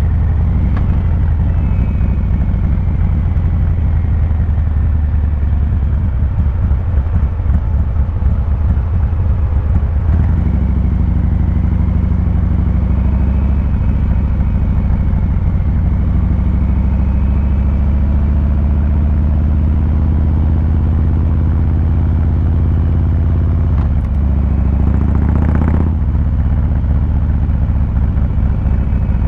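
Harley-Davidson Fat Boy 114's V-twin engine and exhaust running steadily under way, its low rumble shifting to a different engine speed about a third of the way in. A brief rush of noise rises over it near the end.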